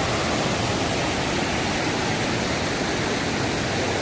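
Steady rush of a forest waterfall pouring over rocks, running with less water than in the monsoon season.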